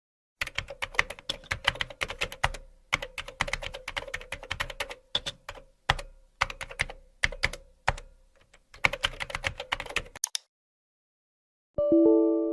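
Computer keyboard typing: rapid, irregular runs of key clicks with short pauses between them, over a faint steady hum. Near the end the typing stops and a ringing musical chord starts and fades.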